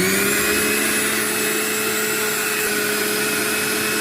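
Electric mixer grinder running steadily at full speed, grinding a wet spice paste for peri peri chicken marinade. Its motor whine settles to full speed just after the start and begins to wind down at the very end as it is switched off.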